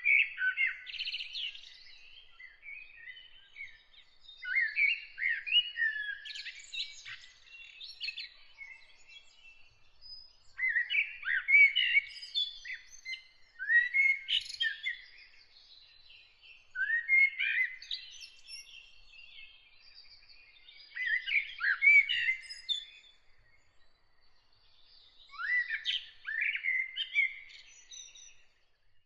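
A songbird singing in warbling phrases of about two seconds, repeated every three to five seconds, with fainter twittering between phrases.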